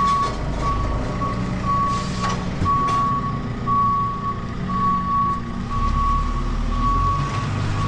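Vehicle reversing alarm beeping about once a second, a single steady tone, over the low rumble of a running engine.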